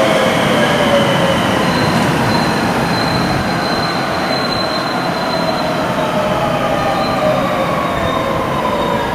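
Electric train running through the station, its motor whine falling slowly in pitch as it slows, with a high, thin wheel squeal for a few seconds.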